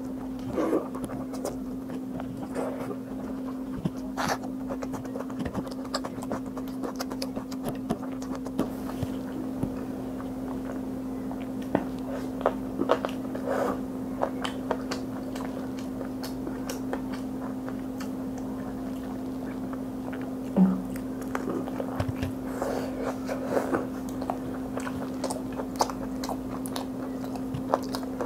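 Close-miked chewing, biting and wet squishing of someone eating spicy mutton curry with fried rice by hand, with scattered lip smacks and clicks. A steady low hum runs underneath.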